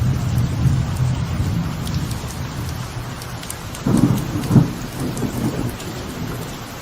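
Light rain falling on a veranda with thunder rumbling low and continuously, swelling into a louder double peak of thunder about four seconds in.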